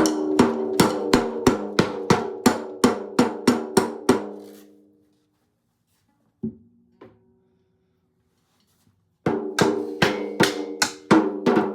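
Acoustic guitar strummed in a steady rhythm of about three strokes a second on a repeated chord, left to ring out after about four seconds. Two single plucked notes follow, then a pause, and the strumming starts again about nine seconds in.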